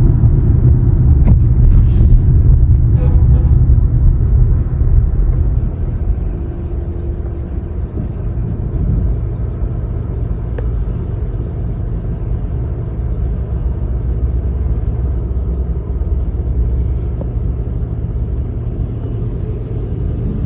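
Low, steady rumble of road vehicles, a heavy engine loudest in the first few seconds and then easing to a constant traffic drone.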